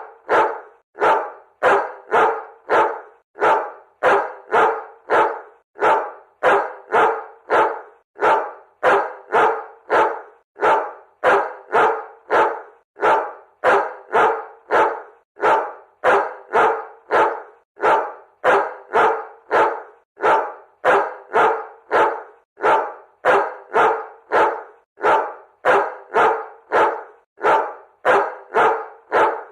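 A dog barking over and over in an unbroken run of short, evenly spaced barks, about two a second.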